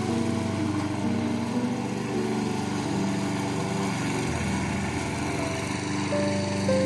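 A small engine running steadily, with background music playing over it.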